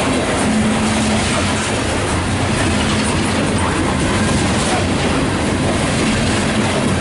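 Loaded coal train's cars rolling past, with a steady rumble and the clickety-clack of wheels over the rail joints.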